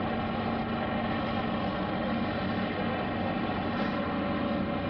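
Aircraft engine running steadily at a constant pitch, a dense drone made of many even tones.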